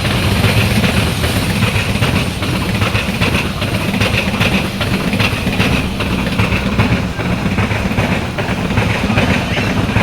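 Train passing close by: a steady low rumble with the rapid clatter of wheels over the rail joints.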